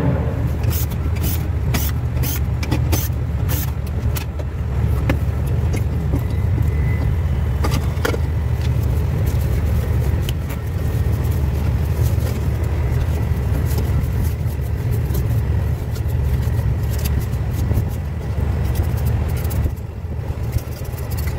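A steady low rumble with scattered sharp clicks and knocks, most frequent in the first few seconds and again near the end.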